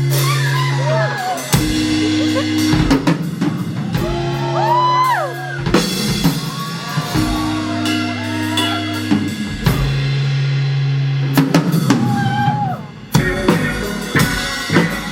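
A live rock band playing loud: drum kit with kick and snare, held bass notes that change every second or two, and a lead melody that bends up and down in pitch. The drums drop out briefly near the end, then come back.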